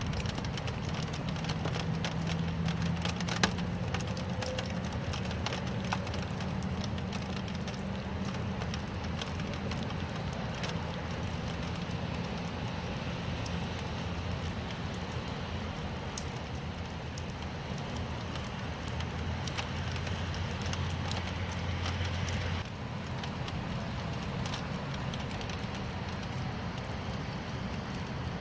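Steady rain, with a dense crackle of separate drops hitting a surface over an even hiss and a low rumble beneath. One sharper drop hit stands out about three seconds in. About twenty-three seconds in, the rumble and part of the hiss drop away suddenly, and the rain carries on a little quieter.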